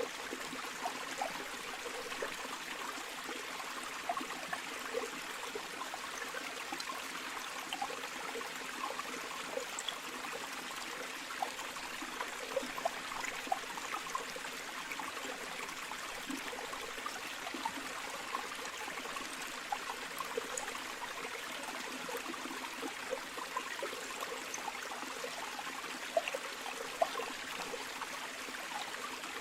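River water flowing steadily over stones, a continuous rushing with small gurgles and splashes scattered through it.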